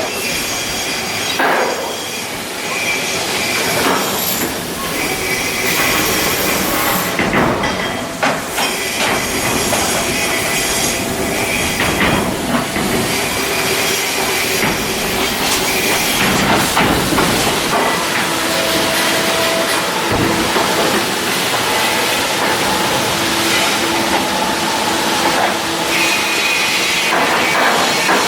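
Continuous loud metalwork noise from shipbuilding work, with metallic squeals and scattered clanks.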